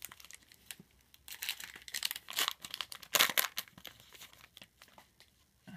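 Foil wrapper of a football trading-card pack crinkling and tearing as it is opened, in irregular rustles, loudest about three seconds in.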